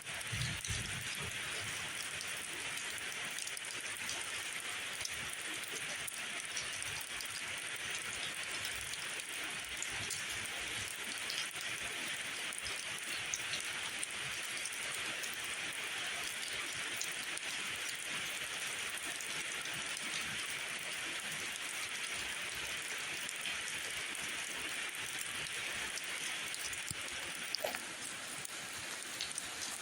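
Steady rain falling: an even hiss with scattered drop ticks and a brief louder tick near the end.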